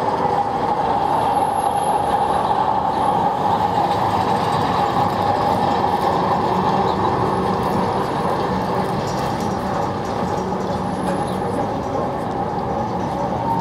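La Rhune rack railway's electric locomotive pushing its wooden carriages past and up the line: a steady whine over a rumble of wheels and running gear, growing a little fainter in the second half as the train moves off.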